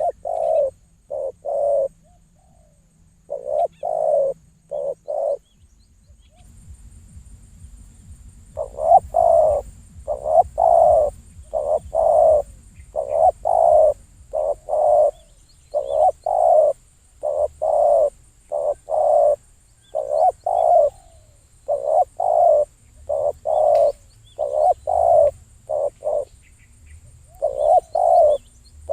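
A dove cooing over and over, in repeated phrases of short, low notes separated by brief pauses.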